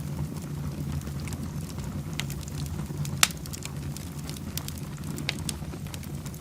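Fireplace fire crackling, with many small snaps over a steady low rumble of the flames and one sharp, loud pop about three seconds in.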